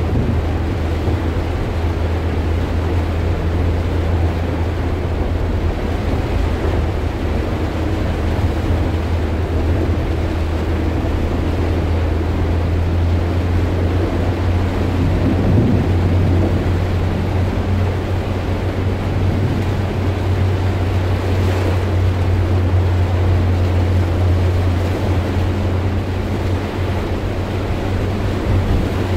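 Heavy rain falling on a vehicle's roof and windscreen, heard from inside the cab, over a steady low drone of the engine and tyres on the wet road.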